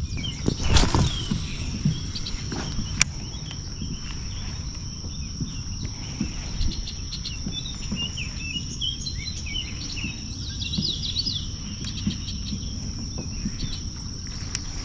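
A steady high-pitched insect drone, with birds chirping through the middle, over a low rumble. There are a couple of short clicks about one and three seconds in.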